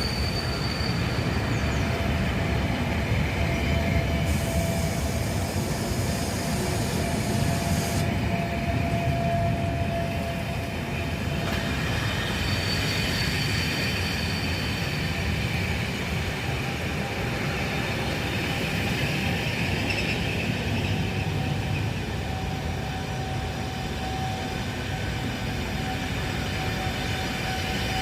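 Diesel-hauled train, a class 47 locomotive and coaches, moving slowly through the station with a steady low rumble, its wheels squealing in thin, shifting tones.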